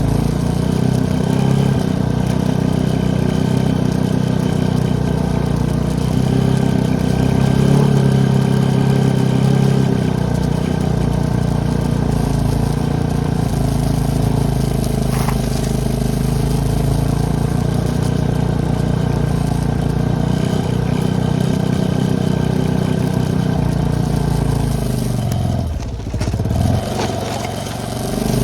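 ATV engine running steadily under throttle while riding through fresh snow. Near the end the revs drop and then rise again.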